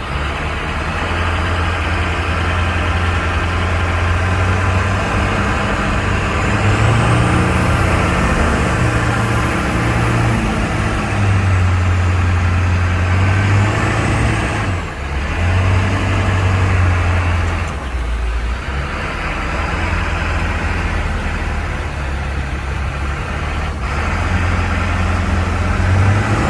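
Monster truck's engine running under load as the truck drives, its low note stepping up and down in pitch as the revs change, with a brief drop about fifteen seconds in.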